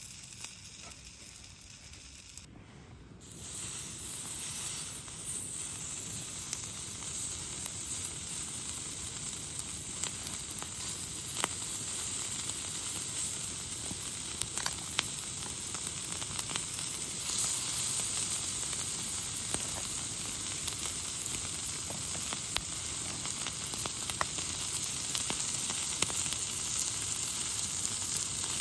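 Food sizzling as it fries in a pan, with scattered small pops and spits. It starts suddenly about three seconds in after a quieter stretch.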